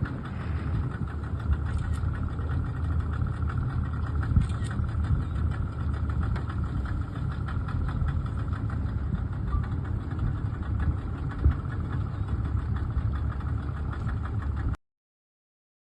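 An engine running steadily, with a constant low rumble and a steady hum. It cuts off abruptly near the end.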